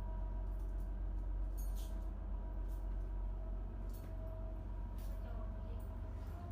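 Houseboat engine running steadily: an even low drone with a faint steady whine above it and a few light ticks.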